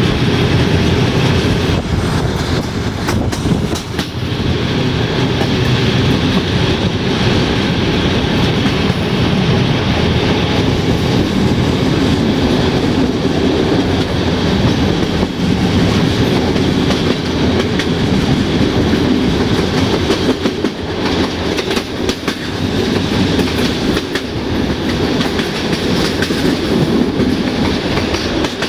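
Locomotive-hauled passenger train coach running along the line, heard from inside the carriage: a steady low rumble and drone with the wheels clicking over rail joints.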